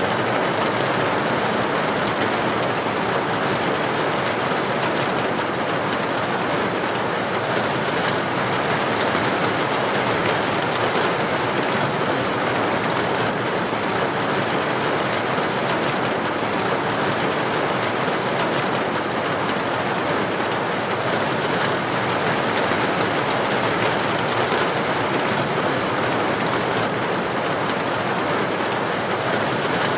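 Heavy rain falling on a street, a steady, even hiss with no distinct claps or drops standing out.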